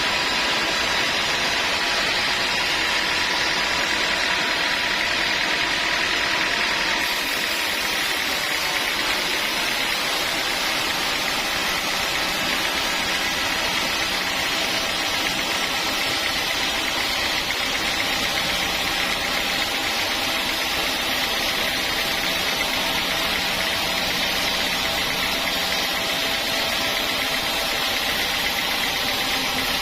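Sawmill saw running steadily: a dense hiss carrying several steady whining tones, shifting slightly about seven seconds in.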